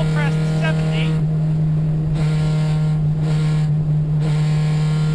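Dodge Neon rally car's four-cylinder engine running hard at steady high revs, heard from inside the cabin.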